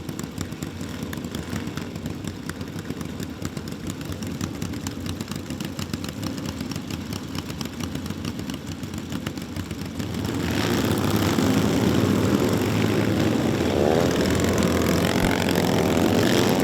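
Motorcycle engine running with a rapid steady pulse, then growing clearly louder about ten seconds in, its pitch rising and falling as it revs.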